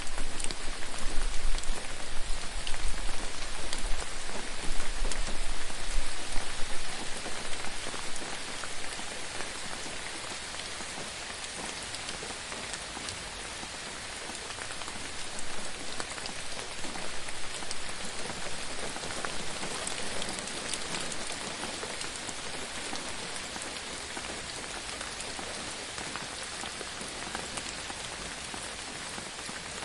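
Steady gentle rain falling on a surface, with many small individual drops ticking through the hiss. It is louder for the first several seconds, with a low rumble underneath, then settles to a softer, even patter.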